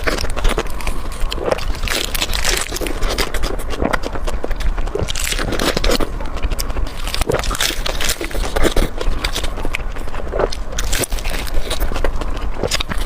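A person biting and chewing a rou jia mo, a crusty flatbread stuffed with meat: irregular crunching and crackling bites close to the microphone.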